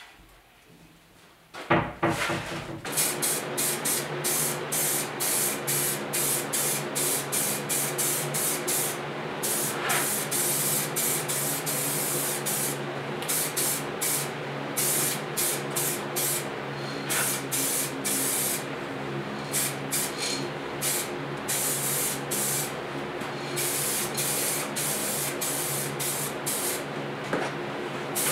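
Aerosol spray can of paint hissing in rapid short bursts, about two a second, as base coat is sprayed onto a motorcycle fuel tank, over a steady low hum. The spraying starts about three seconds in, after a brief loud knock.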